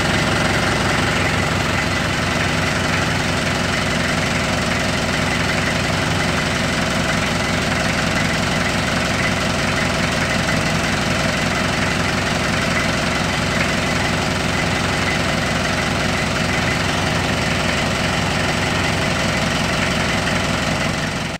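Isuzu Panther's engine idling steadily close by, with an even, rapid pulsing. It stops abruptly at the end.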